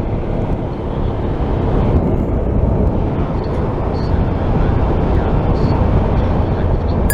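Motorcycle riding at road speed: steady wind rush and engine and road noise on a helmet-mounted microphone, growing a little louder over the first couple of seconds and then holding steady.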